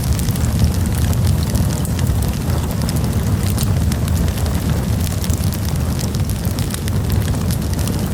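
Campfire burning, with a steady low roar from the flames and many quick, sharp crackles and pops throughout.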